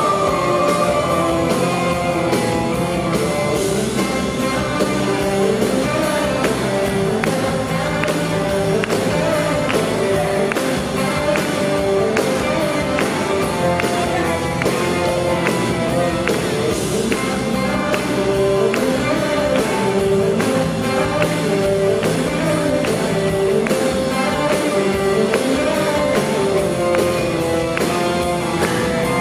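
Live band music with singing: a vocal line over accompanying instruments, with a steady, even beat.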